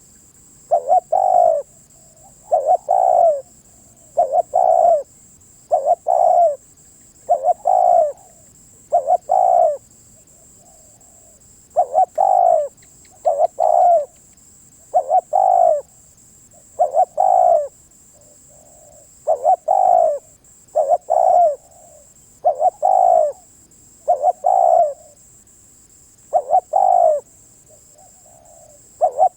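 Spotted dove cooing: a steady series of low coo phrases, one about every one and a half to two seconds, with a short pause about ten seconds in.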